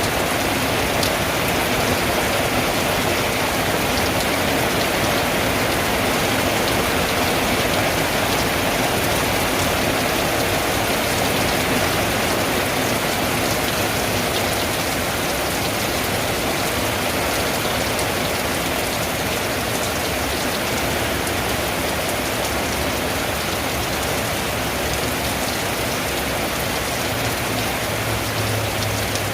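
Steady heavy rain pattering on a tin roof, a dense even hiss of drops that holds at the same strength throughout.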